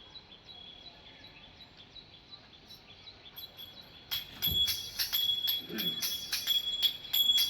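A Vasudev's small hand cymbals and jingling wooden clappers, played in a quick rhythm. They are faint at first and come in loud, with a ringing metallic tone, about four seconds in.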